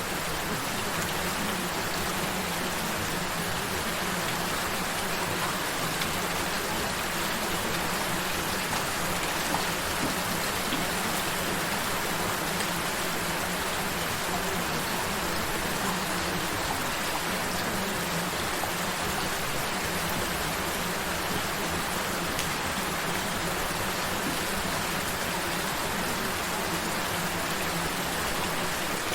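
Steady, gentle rain falling, an even hiss of many drops that holds level throughout.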